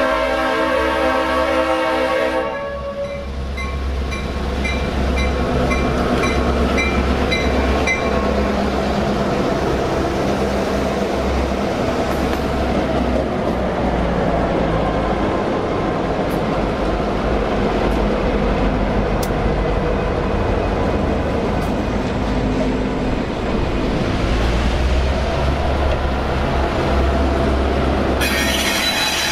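Leslie RS5T five-chime horn on a Norfolk Southern EMD GP38-2 ending a blast about two seconds in. Then the locomotives and train rumble past with engine drone and wheel noise, and a bell rings rapidly for a few seconds. The horn sounds again near the end.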